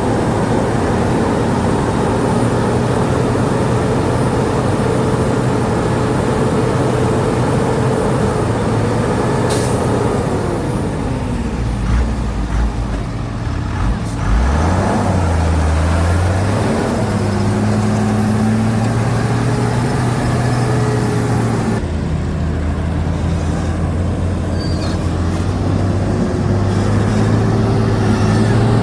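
Heavy diesel engine running under load. Its pitch falls about ten seconds in, dips low around fourteen seconds, and climbs back a couple of seconds later.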